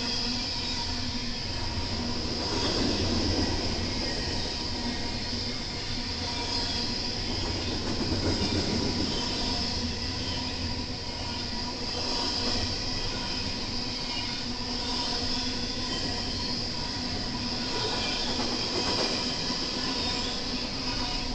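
A BNSF intermodal freight train rolling past: a steady rumble of wheels on rail with a few steady high tones over it, swelling slightly every few seconds as cars go by.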